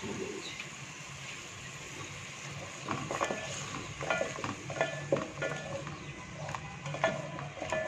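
Onion and spice masala sizzling in hot oil in a metal pot; from about three seconds in a wooden spoon stirs it, with repeated scrapes and knocks against the pot's sides.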